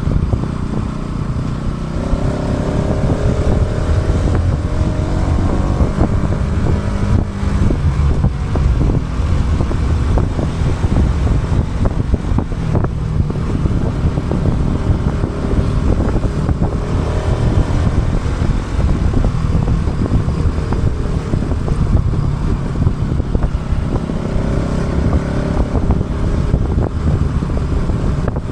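Motorcycle engine running under way, with heavy wind buffeting on an action camera's built-in microphone. The engine pitch climbs as it accelerates about two seconds in and again near the end.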